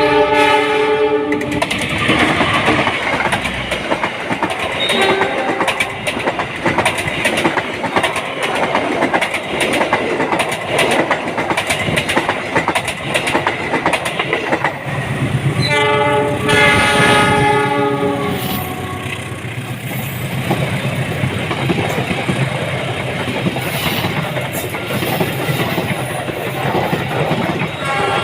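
Train passing close by, its wheels clattering rhythmically over the rail joints. A multi-note locomotive horn sounds in the first second and a half, and again for about three seconds starting around sixteen seconds in.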